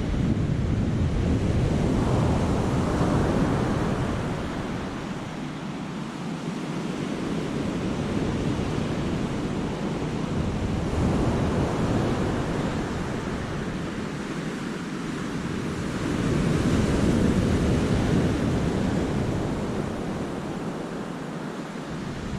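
Sea waves breaking and washing on the rocks and beach of a cove, a steady surf that swells and eases in surges several seconds apart. Wind rumbles on the microphone at times underneath.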